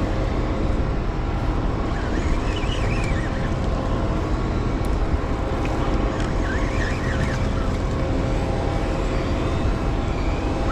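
Boat engine running steadily under a constant hiss of wind and water, with a couple of brief higher rising-and-falling tones about two and seven seconds in.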